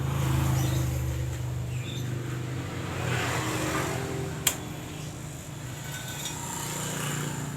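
Honda CBR150R's single-cylinder engine running through an aftermarket Austin Racing exhaust, a steady low note that swells slightly a few times. A sharp click about halfway through.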